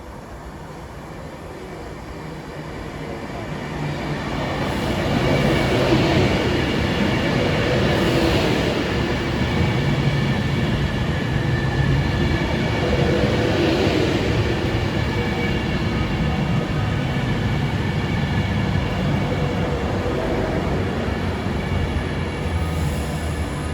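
A train approaching and passing close by on the track, growing louder over the first five seconds, then a steady loud run of wheel-on-rail and traction noise with faint steady whining tones above it.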